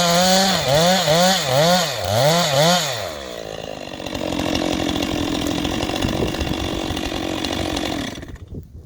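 Gas chainsaw revved in quick repeated bursts, about two to three a second, then dropping back to a steadier low running from about three seconds in. It cuts off near the end.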